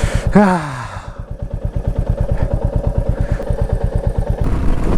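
Vehicle engine running at low revs with a steady, rhythmic low pulsing that grows a little louder near the end. A short falling sigh-like voice sound comes about half a second in.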